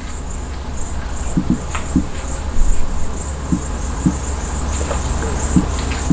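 Crickets chirping in a steady, pulsing high trill, with scattered ticks of raindrops pattering and a constant low rumble underneath.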